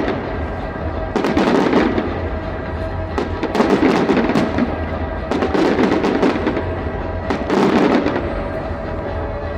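Fireworks bursting in repeated crackling volleys, about one every two seconds, each a thick cluster of sharp pops, with music playing underneath.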